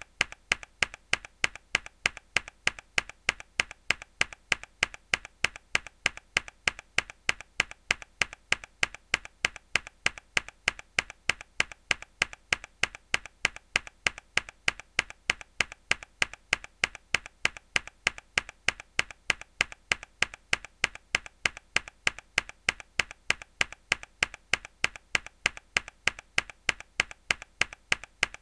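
A single mechanical keyboard key pressed hard, its sharp click repeated over and over at a steady, even rate.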